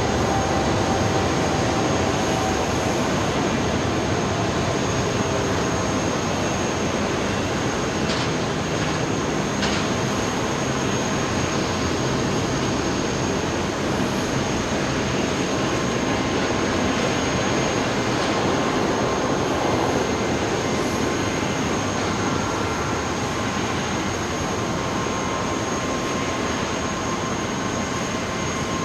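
Jet airliner engines running, a loud, steady rushing noise with a thin high whine over it.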